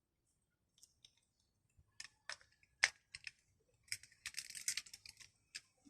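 Scattered sharp clicks and light rattles of small parts and hand tools being handled during a car window regulator repair, with a quick run of clicks about four to five seconds in.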